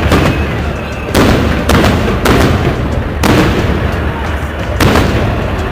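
Fireworks salute going off: a series of heavy booms, about five in quick succession, each trailing off in an echoing rumble.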